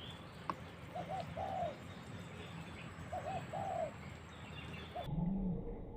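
Spotted dove cooing: three phrases about two seconds apart, each a quick pair of short coos and then a longer, drawn-out coo.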